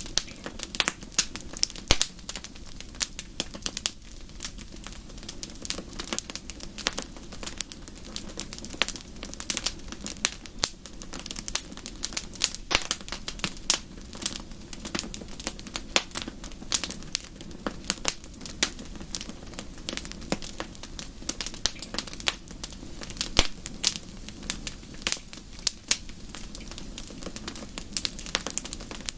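Wood fire crackling steadily in a fireplace: frequent sharp irregular pops and snaps, several a second, over a low rumble of the flames.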